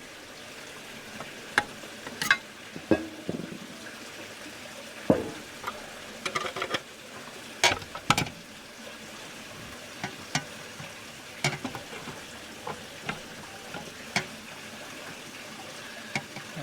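Irregular light clicks, taps and scrapes of small metal parts being handled, as the canopy is fitted onto a Mamod model steam traction engine.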